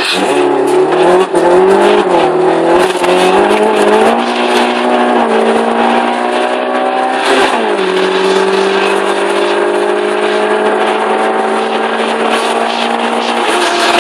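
Modified Peugeot 106 GTI's 1.6-litre four-cylinder engine, heard from inside the cabin, pulling hard under acceleration through a de-catted sport exhaust and a cold-air induction kit. Its pitch climbs, broken by short dips as it shifts up. About seven seconds in it settles into a steady drone that slowly rises.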